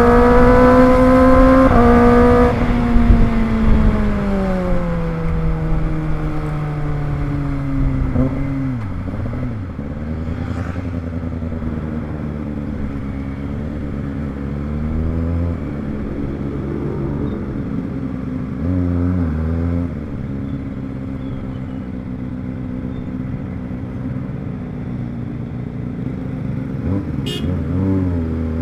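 Kawasaki ZX-25R's 250 cc inline-four engine running high in the revs, then the revs fall away over several seconds as the bike slows, settling to a low, steady run with brief throttle blips about two-thirds in and near the end.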